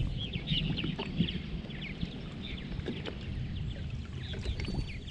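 Many birds calling at once in short, rapid chirps, over a steady low rumble.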